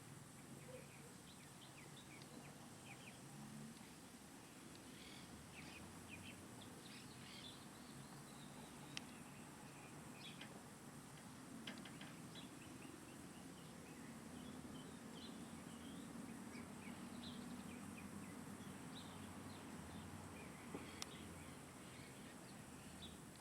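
Faint bird chirps, many short calls scattered throughout, over a low steady background rumble, with a couple of sharp clicks.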